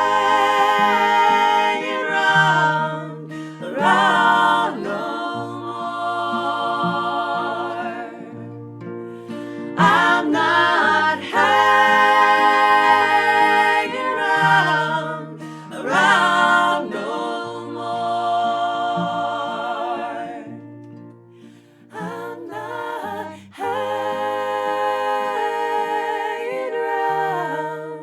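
Background music of unaccompanied voices singing in harmony, in long held phrases with vibrato that begin about every six seconds.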